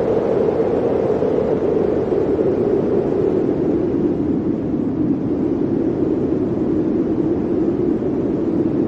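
Blizzard wind blowing steadily: a dense rushing noise with a low howl that sinks slightly in pitch over several seconds.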